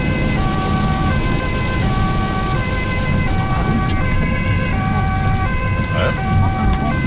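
Ambulance two-tone siren alternating between a high and a low note, each held about three quarters of a second, heard from inside the moving ambulance over engine and road noise.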